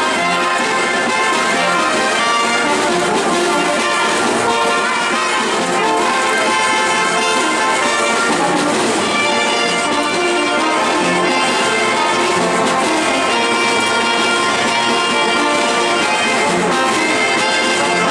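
Marinera music played by a brass band, with trumpets and trombones carrying the tune at a steady level.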